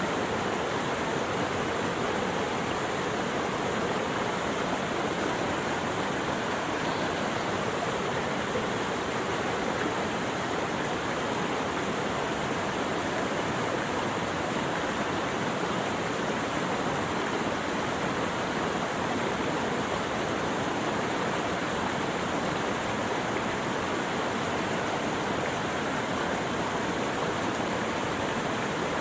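Steady rushing water, with no change or break in its sound.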